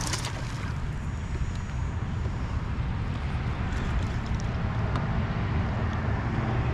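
Wind rumbling on the microphone, a steady low buffeting that grows slightly louder, with a sharp click at the very start.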